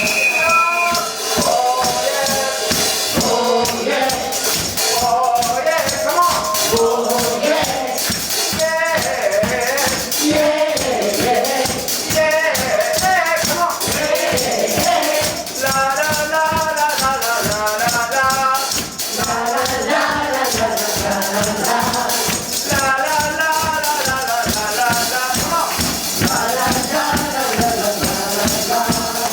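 Live band playing a song with several voices singing together over a steady, quick percussion rhythm.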